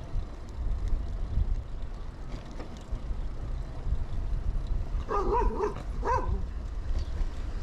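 Steady low rumble of wind and tyre noise from a moving bicycle, with a dog barking twice about five seconds in, the first bark longer than the second.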